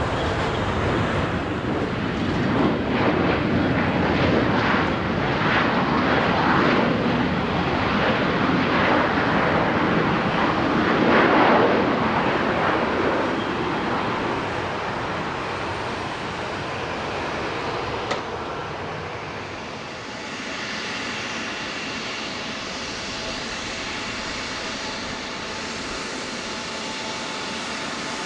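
Jet airliner engines as an aircraft passes. The noise builds to its loudest about halfway through and then dies away, leaving a quieter, steady jet whine.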